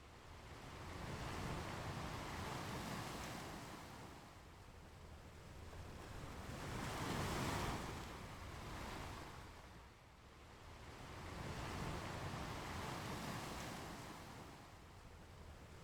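Ocean waves breaking and washing up a beach, each one swelling and then fading away, about three in turn at roughly five-second intervals.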